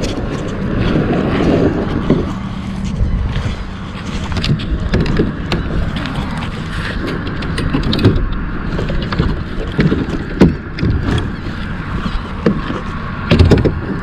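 Wind rumbling on the microphone, with scattered knocks and thuds from a plastic kayak being put on the water and got under way; the loudest thumps come about ten and a half seconds in and near the end.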